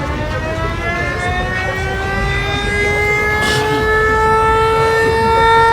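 A siren wailing, its pitch rising slowly and steadily throughout.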